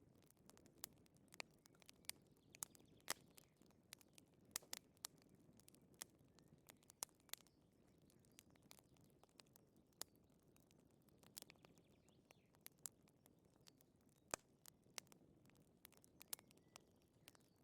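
Wood fire crackling: sharp, irregular pops and snaps, several a second at times, over a soft low hiss.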